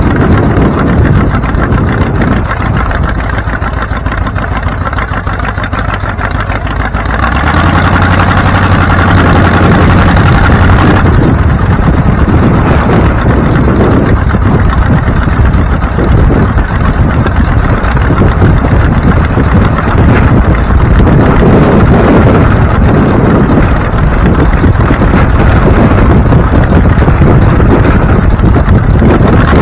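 Vehicle engine and road noise while driving, getting louder about seven seconds in as the engine pulls harder, then running steadily.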